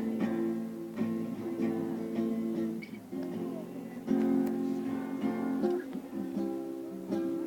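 Acoustic guitar strumming sustained chords, with fresh strums about a second in, near the middle and near the end.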